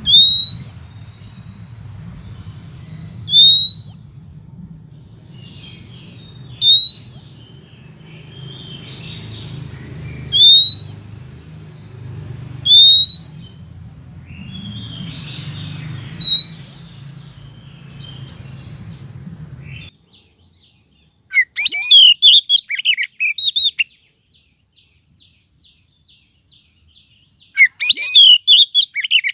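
Recorded calls of a female oriental magpie-robin (kacer), used as a lure for males: six loud, rising whistles about three seconds apart over a low hum. After an abrupt change about two-thirds of the way through, the hum stops and two bouts of rapid, varied twittering follow.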